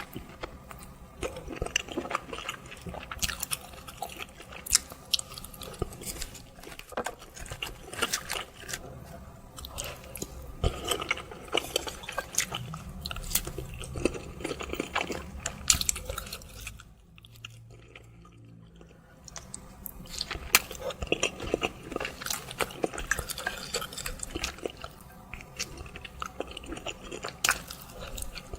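Close-miked eating sounds from a mukbang: chewing and biting with sharp wet clicks and smacks, irregular and continuous. About two-thirds of the way through there is a brief, quieter lull.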